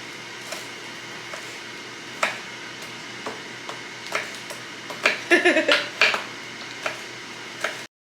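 Irregular knocks and clicks of a plastic knife chopping green onions on a cutting board, with a short child's vocal sound about five seconds in. The sound cuts off abruptly near the end.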